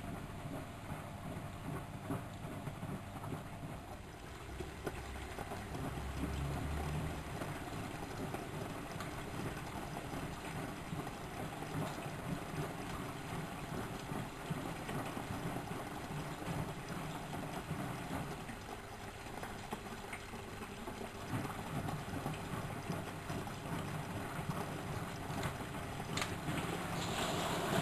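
Miele De Luxe Electronic W763 front-loading washing machine running a wash, its drum turning with laundry and water sloshing inside. It gets louder near the end.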